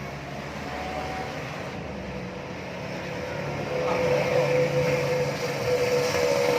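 A motor running steadily, with a whine that grows louder about two-thirds of the way through.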